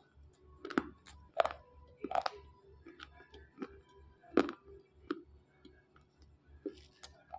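Dry slate pencils bitten and chewed close to the microphone: a string of sharp, uneven crunches and clicks, the loudest about one and a half and four and a half seconds in.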